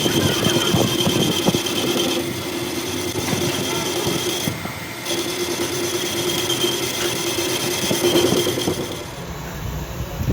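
Metalworking machine running with a steady whine, with scraping and crackling of metal being worked; it eases off briefly twice and dies down near the end.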